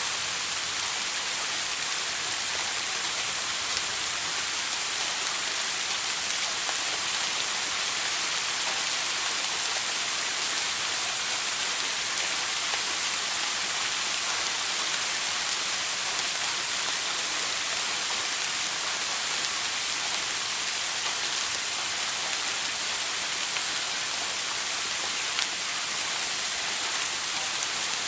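Shower water spraying and splashing steadily, a continuous hiss of falling water.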